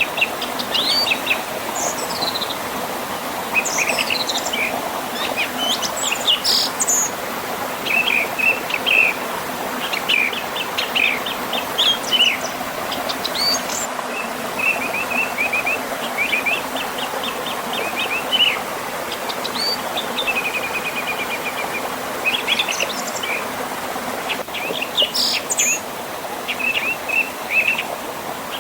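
Several birds chirping and trilling in quick repeated phrases over the steady rush of a river flowing past a small waterfall.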